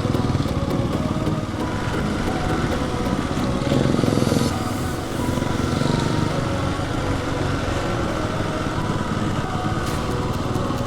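Motorcycle engine running steadily under way, with wind noise over it; it swells a little about four seconds in.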